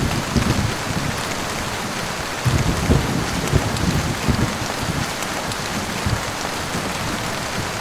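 Heavy rain falling steadily, a dense hiss with irregular low rumbling surges underneath.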